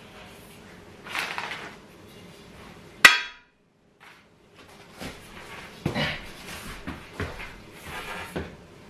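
Furniture assembly noises: a sharp, loud metallic knock with a brief ring about three seconds in, then a run of duller knocks and thumps as parts are handled and fitted together.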